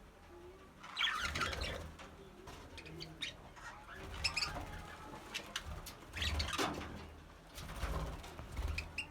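Budgerigars chattering and chirping in short bursts every second or two, with low thuds mixed in.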